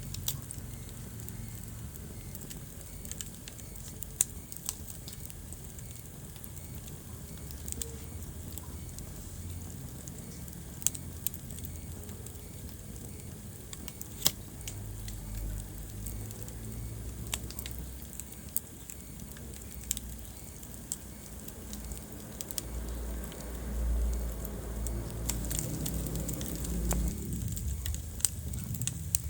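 Wood fire crackling in a fireplace: irregular sharp pops and snaps over a low, steady rumble of flame. The rumble swells for a few seconds about three-quarters of the way through.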